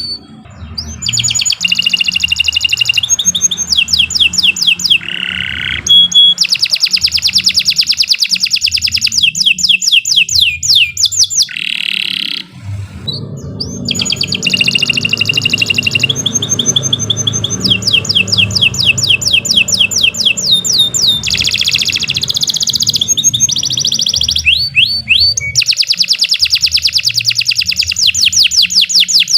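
Domestic canary singing a long, loud song of rapid trills, each a fast run of repeated notes, with short breaks about twelve seconds in and again near twenty-five seconds.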